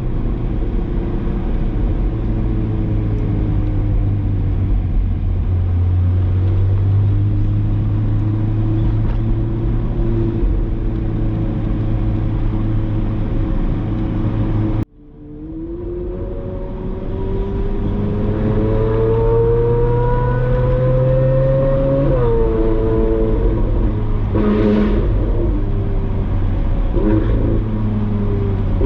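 Ferrari 458's V8 engine through a Brilliant aftermarket exhaust, running steadily at low revs while cruising. About halfway through the sound cuts out abruptly and fades back in, then the revs climb steadily for several seconds under acceleration, drop sharply at an upshift, and settle into steady cruising.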